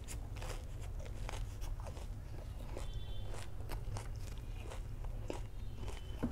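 Close-miked chewing of a mouthful of breaded fried sausage with cheese: irregular soft crunches and wet mouth clicks over a steady low hum.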